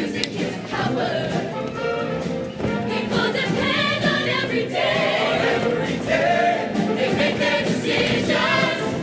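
Show choir singing with band accompaniment: many voices sustaining and moving through sung phrases over steady instrumental backing.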